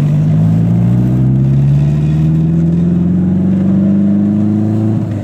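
Eagle Talon TSI's turbocharged 4G63 four-cylinder with a big Precision turbo at about 12 psi of boost, accelerating hard on a test pull. The engine note climbs steadily for about five seconds, then drops suddenly near the end.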